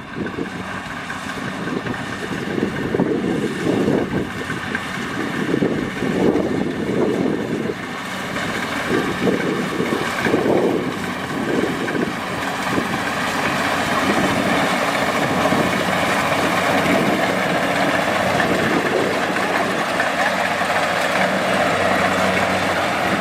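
Kubota DC-70 Plus rice combine harvester running, its diesel engine and machinery giving a loud continuous hum. The sound swells unevenly in the first half, then settles steadier.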